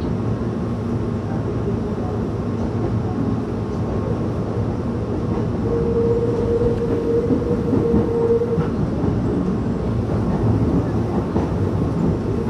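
Meitetsu commuter train running, heard from inside the passenger car: a steady rumble of wheels on rail. A steady tone sounds for about three seconds midway.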